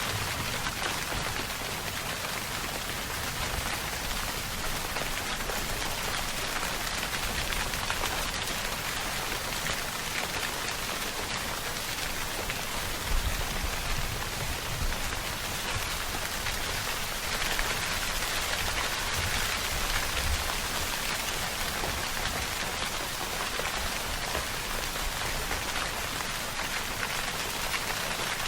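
Steady rainfall: a dense, even hiss of rain pattering on surfaces, with scattered individual drops and no thunder.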